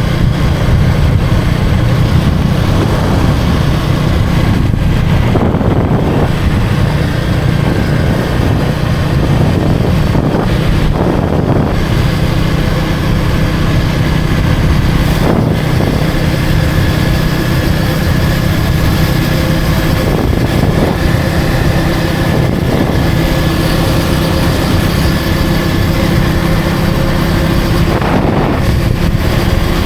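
Motorcycle engine running steadily in street traffic, with a constant low rumble. From about halfway it settles into an even hum, as at idle or a steady low speed. Several short louder passes of traffic come through along the way.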